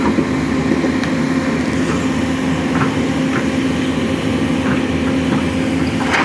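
Sany SY210C-9 hydraulic excavator's diesel engine running steadily, with a few faint ticks and a short burst of noise near the end.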